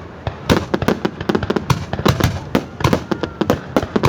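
Aerial fireworks bursting in a rapid, irregular volley of sharp bangs, about four or five a second, after a brief lull at the start.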